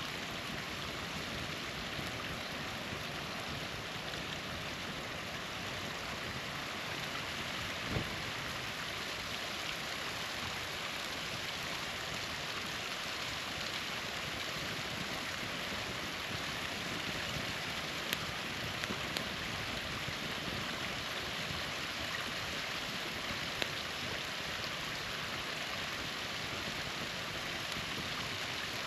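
Small waterfall splashing steadily, with a few sharp pops from a wood campfire scattered through it.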